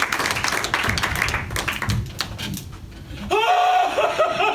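Audience clapping that dies away after about three seconds. A little later a high-pitched laugh starts, a run of quick rising-and-falling "ha" sounds.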